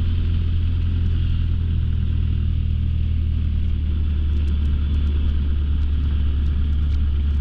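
Light aircraft's piston engine and propeller running at low taxi power: a steady, low drone as the plane backtracks along the runway.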